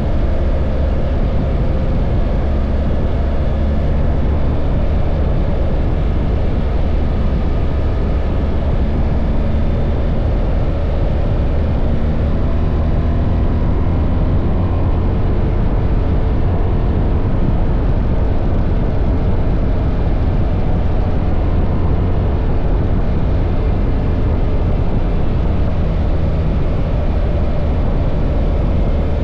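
Steady riding noise of a BMW R1300 GS motorcycle under way: a heavy low rush of wind with its boxer-twin engine running underneath at a constant pace.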